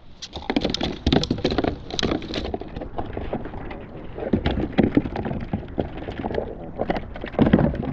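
A freshly landed gurnard thrashing and slapping on a plastic kayak, a rapid irregular run of knocks and taps that keeps on throughout.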